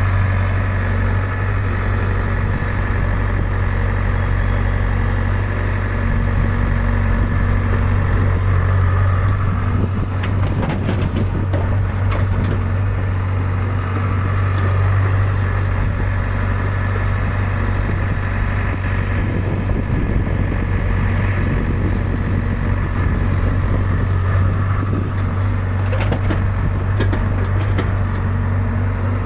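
Hyundai 85 excavator's diesel engine running steadily with a deep, even drone, with a few brief knocks about ten seconds in and again near the end.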